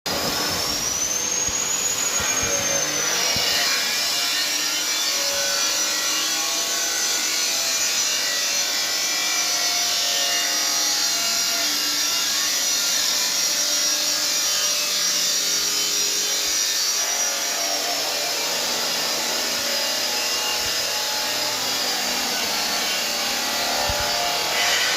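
Electric power tool, likely an angle grinder, working iron pipe: a steady grinding noise with a high motor whine that drifts up and down in pitch as the load changes.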